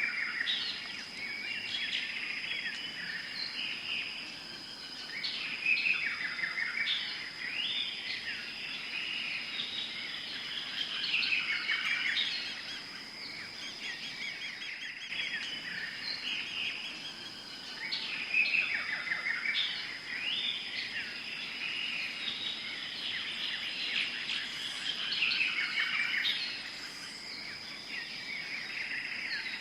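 Tropical forest ambience: many birds chirping and calling over one another, in bursts every few seconds, above a steady high-pitched tone.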